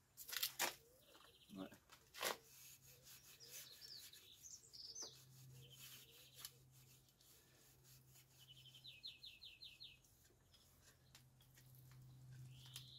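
Faint small birds chirping, with a quick trill of about eight notes about two-thirds through and a rising call near the end, over a low steady hum. A few brief rubbing and knocking noises from a cloth wiped over a bicycle frame, the loudest about half a second in.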